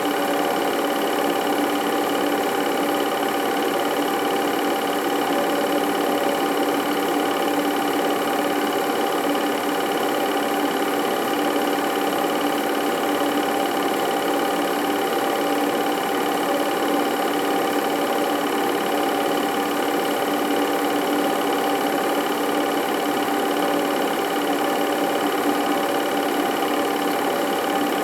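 A small machine running steadily: a constant mechanical whir with a steady hum that does not change.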